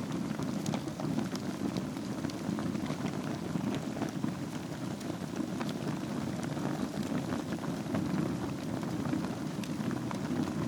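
Wood fire burning in a fireplace over a bed of embers: a steady low rush of flames with scattered sharp crackles and pops.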